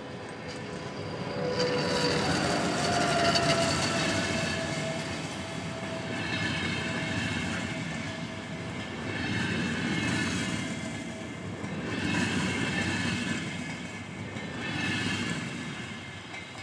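Double-deck intercity passenger coaches passing close by on the rails, with a steady rumble of wheels and running gear. The noise swells and eases every two to three seconds, as with each coach's bogies going by.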